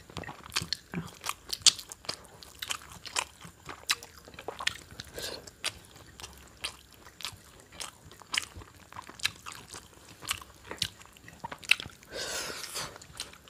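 People eating rice, with chewing and irregular soft mouth clicks and smacks.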